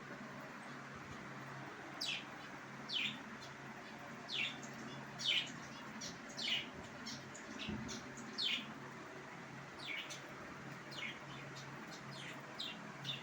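Lovebirds chirping: short high calls that fall quickly in pitch, coming irregularly about once a second, some close together in pairs, over a faint steady hum.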